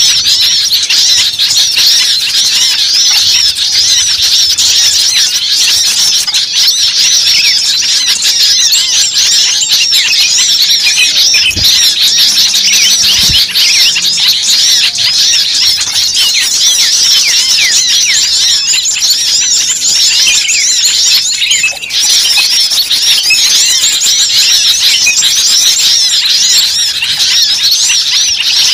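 Dense, noisy chorus of many small birds calling at once: rapid, overlapping high chirps and squeaks with no pause. It is a bird-luring (pikat) recording of an agitated flock, used to draw small birds in.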